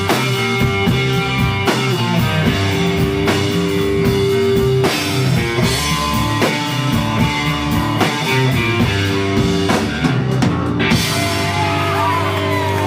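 Rock band playing live without vocals: electric guitar over bass and drum kit, with gliding, bent guitar notes near the end.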